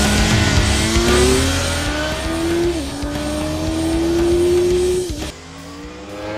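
Sport bike engine accelerating hard through the gears. The engine note climbs, drops sharply at upshifts about a second and a half, nearly three, and five seconds in, then goes quieter.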